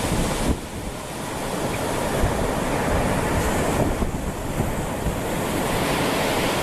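Ocean surf washing on a beach, with wind buffeting the microphone; the wash dips briefly just after the start, then swells up and holds steady.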